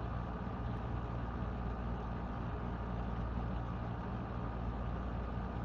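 A steady low hum with no speech.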